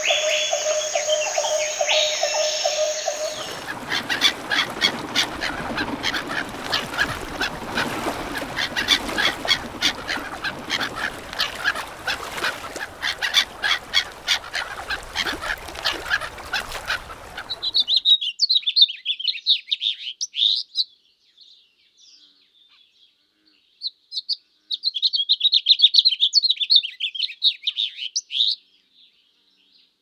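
Birds calling. For the first few seconds a steady tone sounds with quick chirps above it. This gives way to a dense chatter of many birds full of rapid clicks. About eighteen seconds in it changes to short bursts of high, thin twittering broken by silent gaps.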